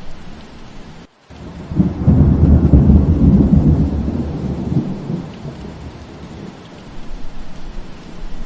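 Steady rain with a low roll of thunder that builds about two seconds in and dies away over the next few seconds. The rain drops out briefly for a moment just before the thunder.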